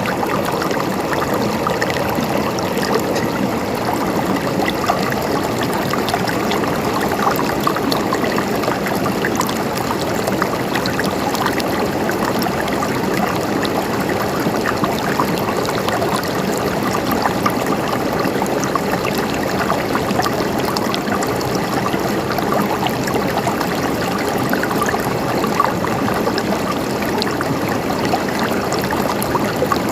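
A river flowing steadily over rocks: a constant rush of water with many small splashes and gurgles.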